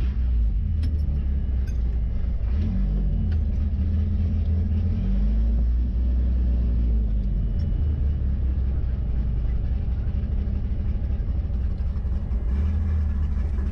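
Ford 2.3 L turbo four-cylinder engine in a 1963 Volvo Amazon, running at low revs with a deep rumble, its pitch rising and falling a little.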